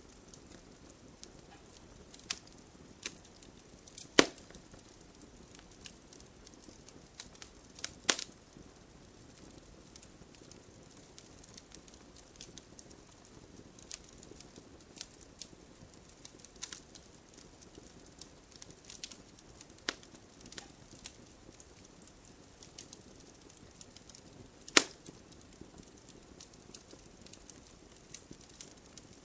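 Wood bonfire crackling: scattered sharp snaps and pops, three much louder ones about 4, 8 and 25 seconds in, over a faint steady hiss of rain.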